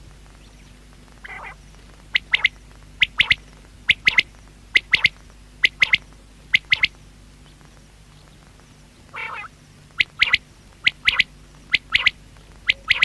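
Male common quail singing its 'wet-my-lips' song: groups of two or three short, sharp whistled notes repeated about once a second. A softer, rough note comes before each run, one about a second in and another about nine seconds in.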